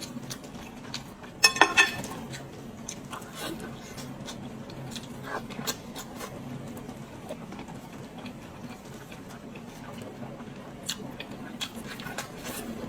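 Eating sounds from a pig's head being chewed and pulled apart: scattered small clicks and wet smacks, with a louder clatter of clicks about one and a half seconds in, over a faint steady low hum.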